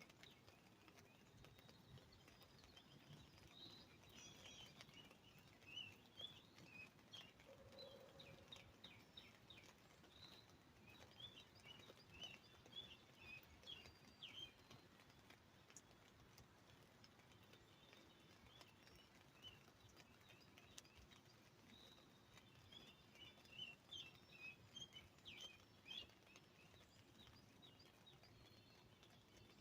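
Songbirds chirping faintly in several bursts of quick, high chirps. Underneath is a faint patter of scattered drips as the rain on the umbrella dies away.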